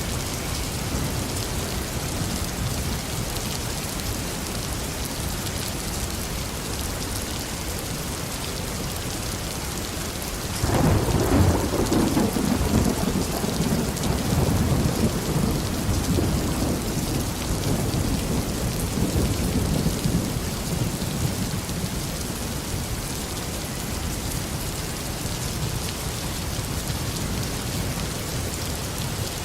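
Steady tropical rain falling on a garden, with a roll of thunder that breaks in about a third of the way through. The thunder is loudest at its start and rumbles on for around ten seconds before sinking back under the rain.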